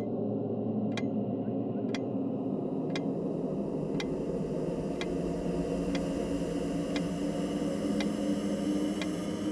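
A clock ticking once a second, sharp and even, over a steady low drone.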